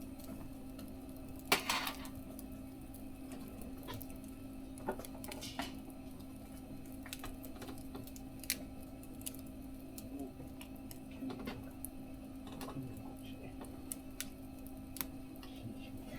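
Small wood fire in a mesh fire stove crackling, with scattered sharp pops and clicks and a louder burst of crackle about a second and a half in, over a steady low hum.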